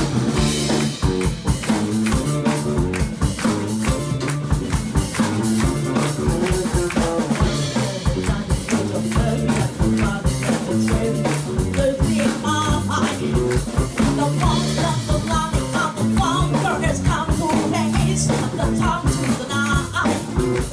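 Live rock band playing an instrumental break: drum kit keeping a steady beat with rimshots, and electric guitar and bass playing over it. A melodic lead line comes in about twelve seconds in.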